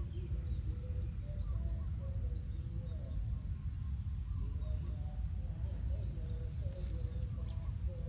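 Birds calling outdoors: a few short, high falling chirps in the first half and a steady run of short warbling notes, over a steady low rumble.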